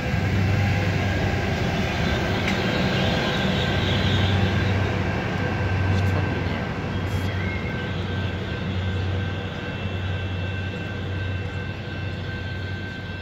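Exo commuter train passing: a steady low diesel locomotive drone with rail and wheel noise. It is loudest in the first half, as the locomotive goes by, then fades as the train pulls away.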